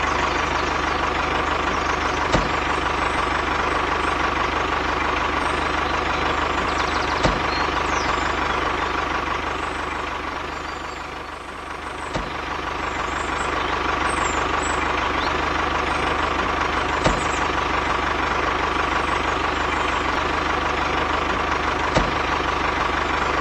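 A DIY mini tractor's small motor running steadily with a constant hum. It grows quieter about halfway through, then comes back up, with a few light clicks along the way.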